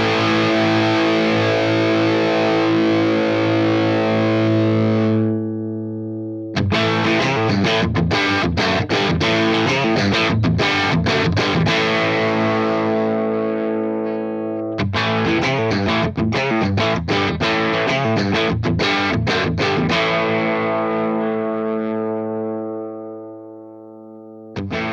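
Les Paul-style electric guitar played through a Fender Blues Junior IV 15-watt tube amp, captured through a reactive load and speaker impulse response rather than a miked cabinet. A held chord rings out and fades, then two rhythmic picked passages each settle into a long sustained chord, and a fresh chord is struck at the very end.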